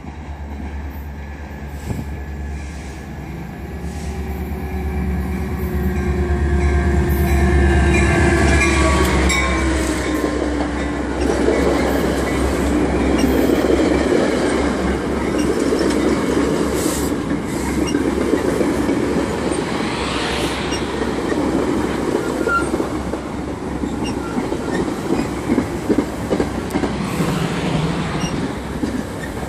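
Metra diesel commuter train arriving at a station: the locomotive's engine drones, with tones sliding downward in pitch as it comes in. Then the bilevel coaches roll past with a steady rumble, clacking wheels and some brake squeal as the train slows.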